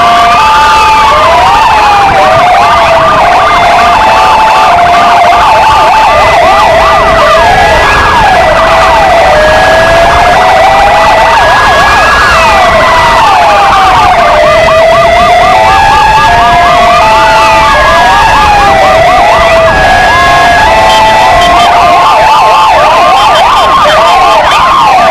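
Two Argentine Federal Police motorcycle sirens and two Kingvox ERP electronic sirens sounding together, very loud. Their patterns overlap: slow wails rising and falling every few seconds, a fast warbling yelp that returns near the end, and stepped two-tone notes alternating high and low.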